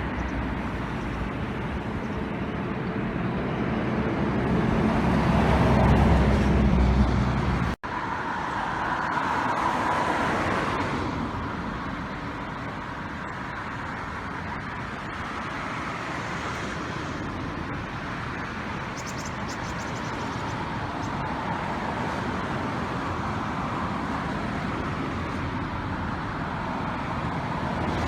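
Typhoon wind buffeting the microphone over the steady rush of rough, storm-swollen water, with a heavy low rumble in the first few seconds that cuts off abruptly about eight seconds in, then a steadier hiss.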